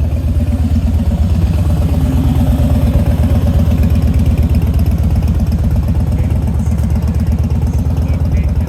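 Car engine idling close by, a loud, steady run of quick, even firing pulses.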